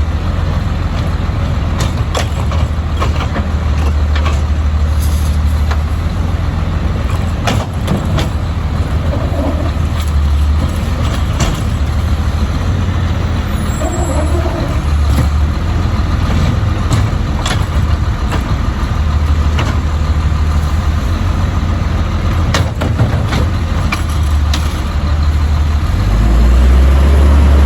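Autocar side-load garbage truck's diesel engine running with a steady low rumble, with scattered knocks and clanks. The engine grows louder for a moment near the end.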